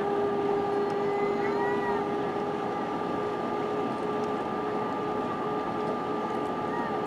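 Steady cabin noise of an Airbus A320-232 on approach: an even rush of airflow and engine noise with a constant hum and whine from its IAE V2500 engines.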